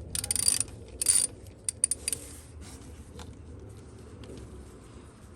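Metal hand tools clinking as a 10mm socket is handled: two short jangling bursts with a metallic ring, then a few quick sharp clicks.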